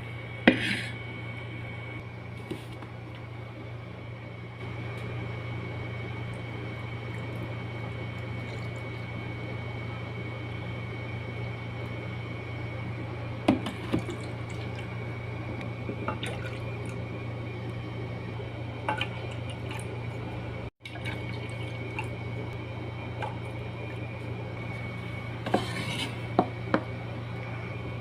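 A few sharp clinks and knocks of dishes and utensils, spaced out, over a steady low hum.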